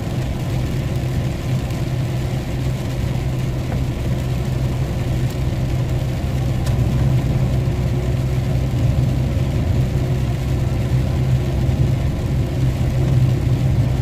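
Scania 113 truck's six-cylinder diesel engine droning steadily under way, heard from inside the cab along with road noise, a little louder in the second half.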